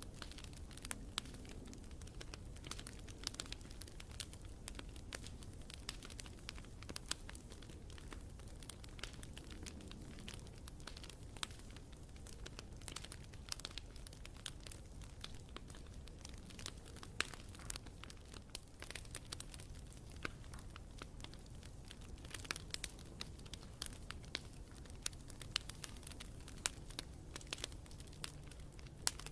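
Wood campfire burning, with frequent sharp irregular crackles and pops over a low steady rumble of the flames.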